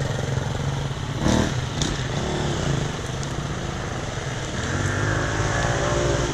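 Dirt bike engine running steadily, with a brief knock about a second in, then picking up revs a little past the middle.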